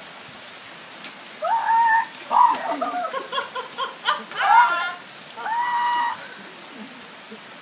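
Steady rain pattering on surfaces. Through the middle, voices call out several times in short bursts over the rain.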